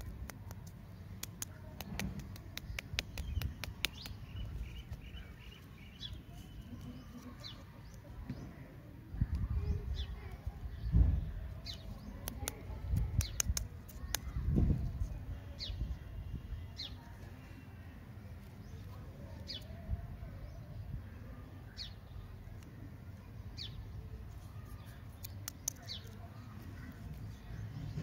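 Bird chirping repeatedly in the background, short falling chirps every second or two. Over it come the soft rustles and dull bumps of hands handling plastic-wrapped lollipops, the loudest bump a little before the middle.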